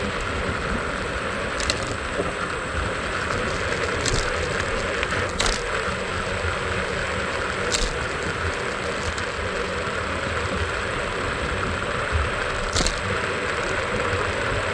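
Steady road and traffic noise heard while riding a scooter through city traffic: an even rumble and hiss with no pauses, broken by about five short, sharp clicks.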